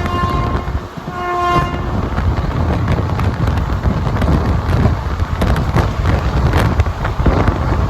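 Locomotive horn sounding two blasts, a longer one that ends about a second in and a short one right after. Then a moving passenger train's running noise: a steady rumble with rail clicks and knocks.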